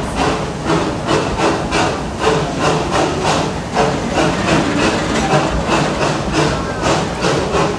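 Park train running along its track, heard from an open-sided passenger car: a quick, even rhythmic clatter over a steady rumble.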